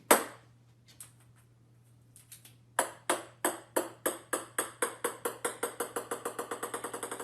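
One loud click, then a run of sharp, ringing taps that come steadily faster and fainter, over a faint steady hum.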